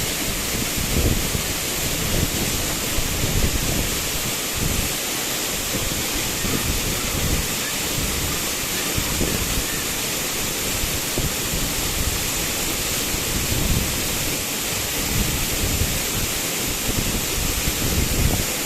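Waterfall: a steady, loud rush of falling water, with an uneven low rumble beneath it.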